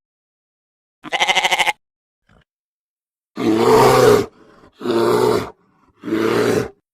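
A goat bleats once, a short wavering call about a second in. Then come three lower, rougher animal calls from a larger animal, each just under a second long.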